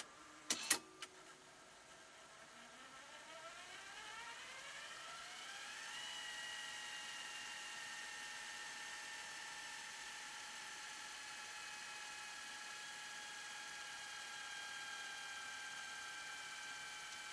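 Sony DTC-A7 DAT deck's mechanism: a few sharp clicks in the first second, then a motor whine that rises in pitch for about four seconds as it spins up and settles into a faint, steady whir.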